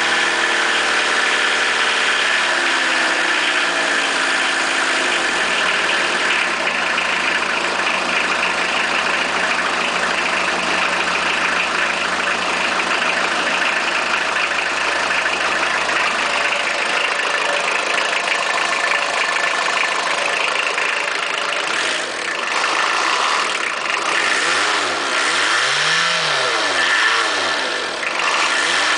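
1991 Opel Kadett's 1.7-litre four-cylinder diesel running on a cold start after eight months standing. The revs ease down in the first few seconds, then it idles steadily, and near the end it is revved up and down twice in quick succession.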